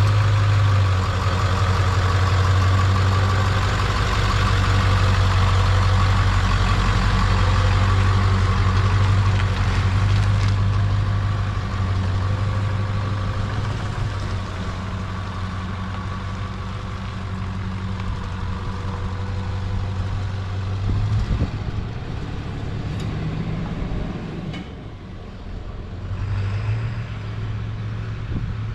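1996 Ford F-250's 7.3-litre turbo-diesel V8 running as the truck is driven slowly. The engine note is steady and loud for the first ten seconds or so, then eases a little and stays lower.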